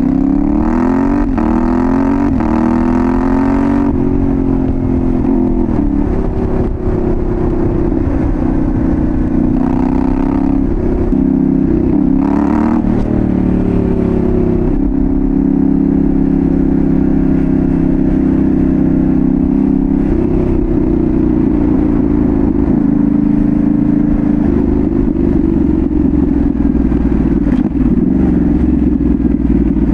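A 2022 Yamaha Ténéré 700's parallel-twin engine, with a full Dominator GP1 exhaust, heard from onboard while riding. It accelerates with rising revs over the first few seconds, then runs at steadier revs with small rises and falls, and revs up briefly about twelve seconds in.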